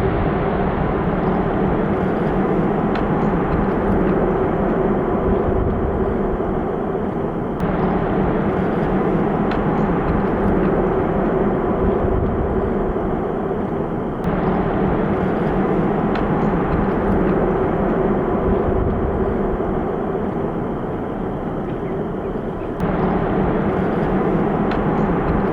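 Steady rumble and hum of a landing airliner's jet engines, heard from outside as the AirAsia Airbus A320-family jet approaches. The level jumps abruptly three times.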